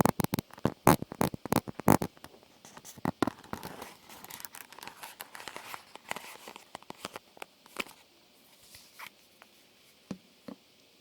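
Close-miked ASMR trigger sounds: a fast run of sharp taps and clicks, then softer scratching and crinkling that thins out to a few scattered taps near the end.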